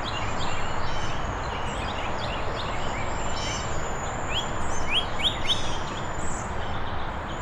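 Backyard birds chirping: many short, quick rising calls, with a steady background hiss of outdoor noise.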